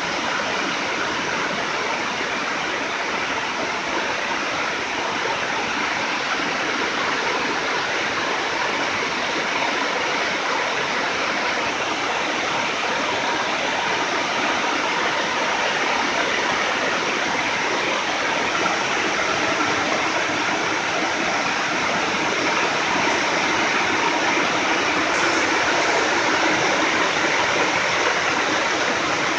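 Heavy rain pouring down steadily, a dense, even hiss that grows a little louder toward the end.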